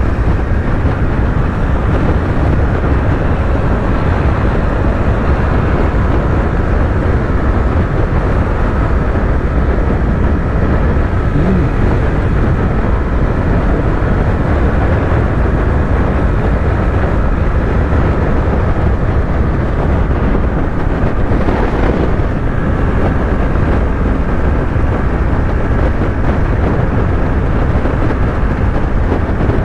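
Yamaha YZF-R3's 321 cc parallel-twin engine running at steady highway speed under heavy, even wind and road rush, with a brief swell in the noise about three-quarters of the way through.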